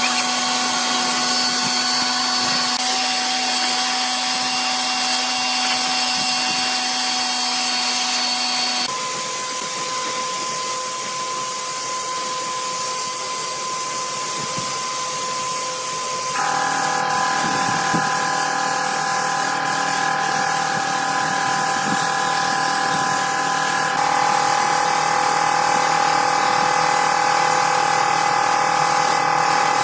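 Electric power tool running steadily with a constant whine, its pitch changing suddenly three times.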